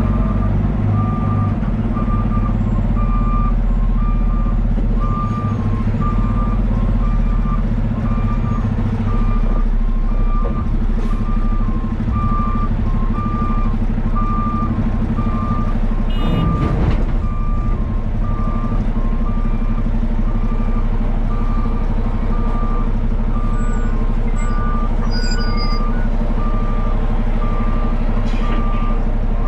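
A heavy machine's backup alarm beeping steadily about once a second over a diesel engine running, with a brief burst of noise about halfway through.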